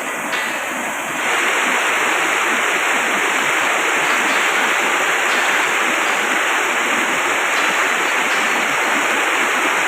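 Stream water flowing and rushing steadily, getting louder about a second in.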